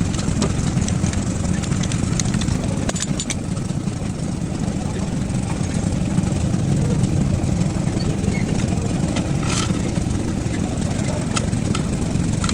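An engine running steadily at idle, a low even drone, with a few scattered light metallic clicks and taps over it.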